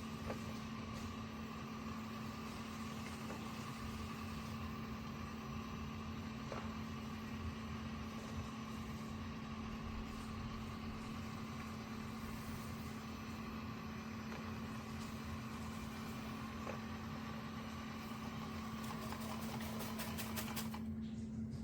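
AIRROBO robot vacuum running with a steady motor hum and a fainter whine as it heads back to its charging base. Near the end the whine and the upper hiss cut off.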